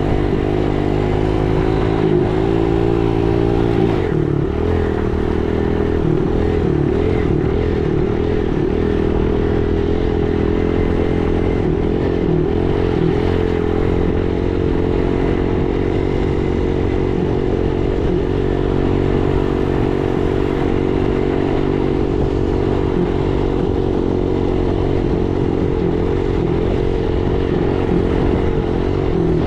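Dirt bike engine running at a fairly steady speed while riding, its pitch rising and falling slightly.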